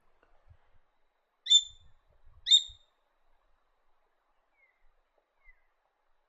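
A bird calling: two loud, short, sharp calls about a second apart, each slurring slightly downward. Two much fainter, shorter calls follow later.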